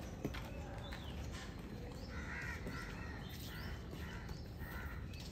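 Birds calling: a run of short, harsh, repeated calls, about two a second, beginning about two seconds in, with a few brief higher chirps.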